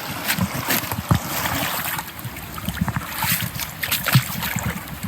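Irregular splashing of feet wading through a shallow creek, over the steady rush of running water.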